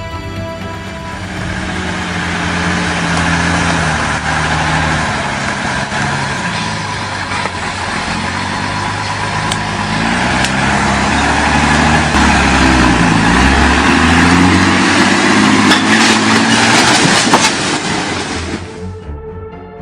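Heavy truck's engine and road noise, building louder, with several sharp knocks and bangs in the last few seconds, the loudest near the end, before it cuts off suddenly.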